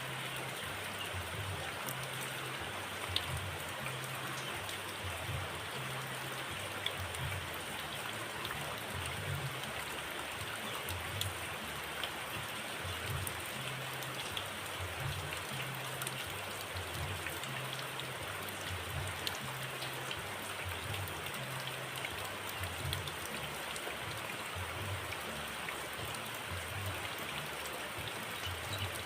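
Steady, even background hiss with faint scattered ticks and no birdsong, a pause between the cililin's song phrases.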